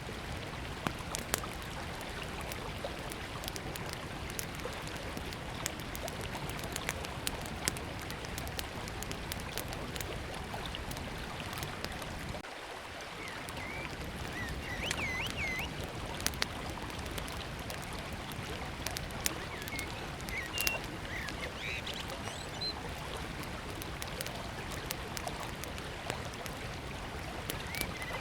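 Small wood fire crackling with sharp pops over the steady rush of a flowing river. Birds chirp now and then from about halfway on.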